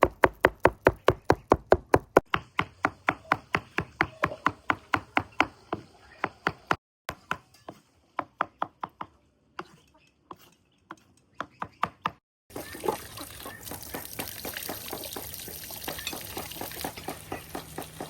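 Knife chopping quickly on a cutting board, about five strokes a second, slowing to scattered strokes with gaps after about seven seconds. From about twelve seconds in, the chopping gives way to a steady open-air background noise.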